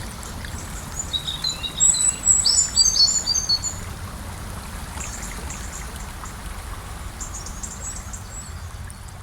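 Gentle river flowing steadily, with a bird chirping a quick run of high notes from about one to nearly four seconds in.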